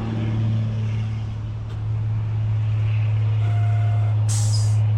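Semi truck's diesel engine running steadily, a low hum heard from inside the cab, with a short hiss about four and a half seconds in.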